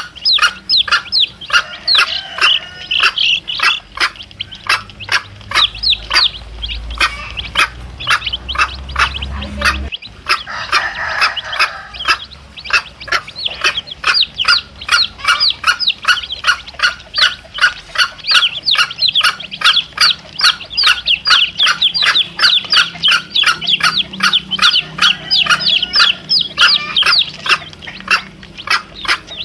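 Domestic chicks peeping continuously: many short, high, falling peeps, several a second. The mother hen's lower calls break in now and then.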